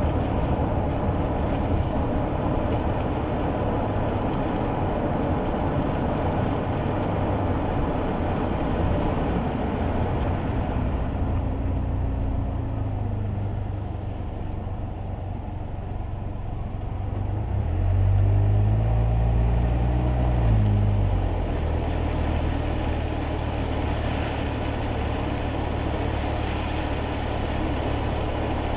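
Kei car heard from inside the cabin on a wet road: steady tyre and road noise with the small engine's drone. The road hiss fades about halfway through as the car slows. The engine note then swells and falls briefly, and settles into a steady low hum.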